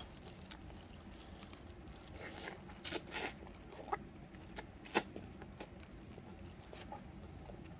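Biting and chewing a skewer of soft Korean fish cake (odeng) close to the microphone: scattered mouth clicks and smacks, with a cluster about three seconds in and a sharp click about five seconds in.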